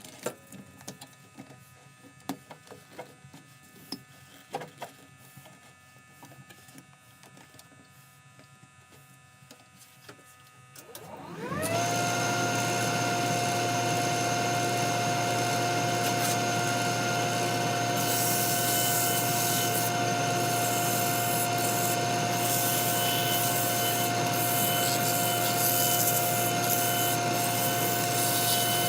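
Scattered light clicks and taps, then, about twelve seconds in, an electric wood lathe starts with a short rising whine and runs at a steady hum. From about eighteen seconds a rasping hiss of wood being worked on the spinning walnut piece joins it.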